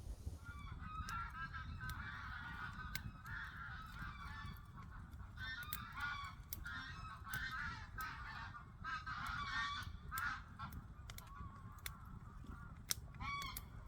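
A flock of geese honking, many short calls overlapping one another, with sharp crackles from an open campfire.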